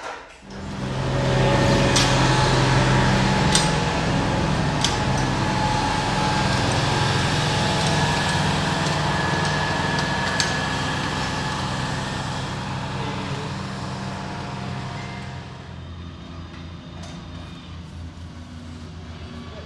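A large motor vehicle's engine starts running loudly and suddenly, with a steady low hum and a few sharp clicks. It fades gradually over several seconds to a lower, steady engine hum, as if the vehicle is moving off.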